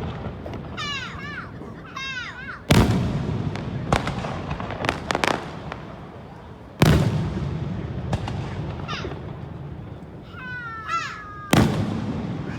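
Aerial fireworks shells bursting: three deep booms about four seconds apart, each trailing off in a long rumble, with a cluster of sharp crackling pops after the second. Short high cries that rise and fall come between the booms.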